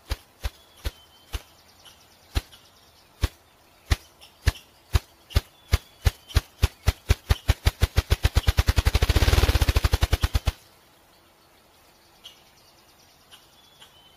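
Ruffed grouse drumming: deep wing-beat thumps that start about half a second apart, speed up steadily into a rapid whirr, and stop about ten and a half seconds in.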